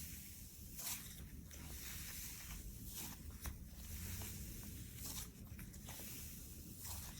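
Slime being squeezed and stretched by hand close to the microphone: sticky crackles and small pops at irregular intervals.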